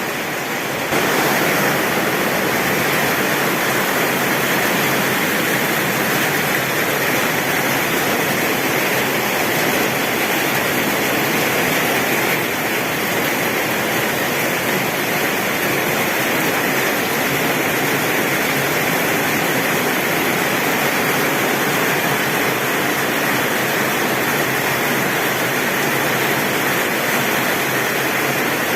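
Heavy rain falling steadily on a tin roof, a dense even patter that gets a little louder about a second in.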